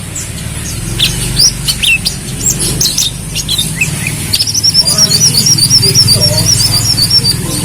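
Brown-throated sunbird (kolibri kelapa) singing: a string of sharp, high chirps and slurred notes, then about halfway in a fast, high warbling trill that runs on to the end.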